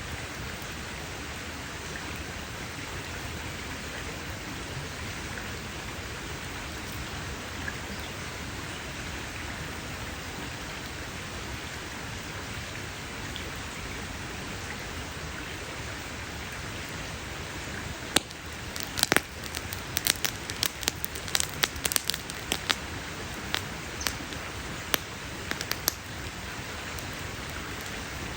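Campfire burning with a steady hiss; about two-thirds of the way in, a run of sharp crackles and pops breaks out, then thins to scattered pops.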